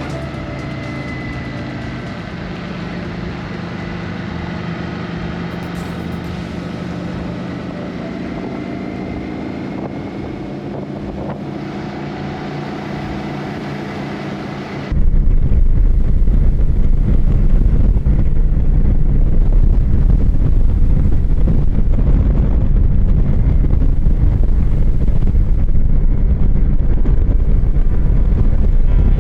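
Motorcycle engine running steadily while riding on the road, its pitch shifting slightly. About halfway through, the sound jumps abruptly to a much louder low wind rumble on the microphone over the engine.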